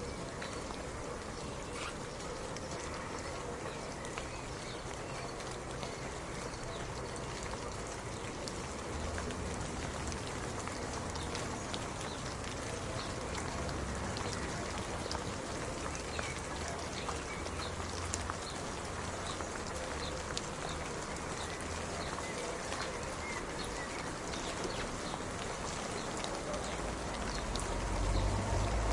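Steady rain with many separate drops ticking and pattering on a surface. A low rumble swells near the end.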